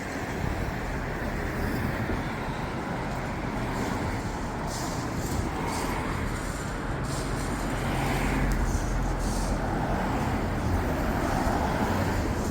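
Modified HMT 5911 tractor's diesel engine running steadily with a low rumble, a little louder about eight seconds in.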